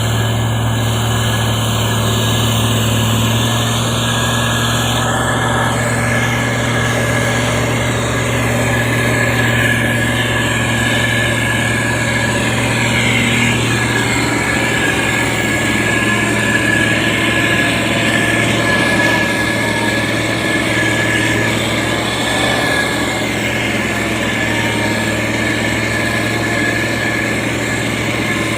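Heavy road-construction machine's engine running steadily at an even pitch.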